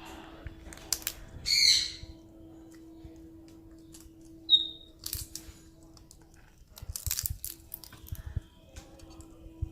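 A parrot gives one harsh squawk about a second and a half in, then a short high chirp a few seconds later, with scattered clicks and rustling over a faint steady hum.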